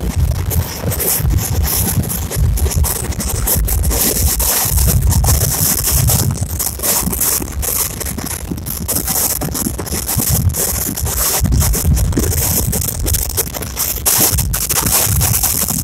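Wind buffeting the microphone at the open window of a moving express train, over the train's running rumble and rattle, with irregular gusty thumps in the low end and a steady hiss.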